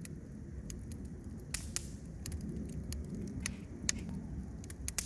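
Wood campfire burning: a low steady rumble of flame with irregular sharp crackles and pops.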